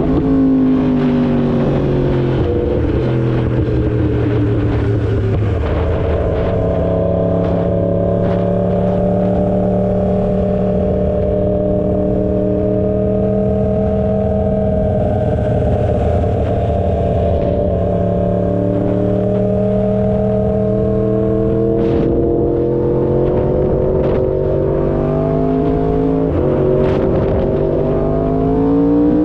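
2016 Yamaha R1's crossplane inline-four engine running at steady street-riding revs. The pitch drops near the start and climbs again near the end as the bike accelerates.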